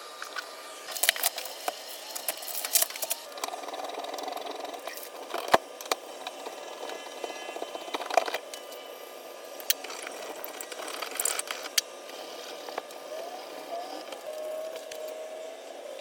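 Scattered, irregular clicks, clinks and rattles of hard objects being handled, with no steady machine running.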